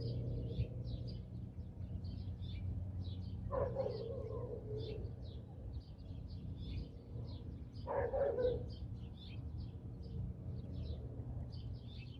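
Small birds at a nest of young chicks chirping in quick, high, repeated peeps, about three a second, with two louder, lower calls about four and eight seconds in.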